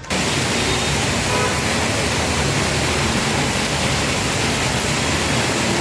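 Heavy rain falling in a steady, loud hiss that starts abruptly.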